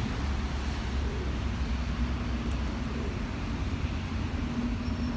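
Steady rumble of city road traffic, with a faint low hum held throughout.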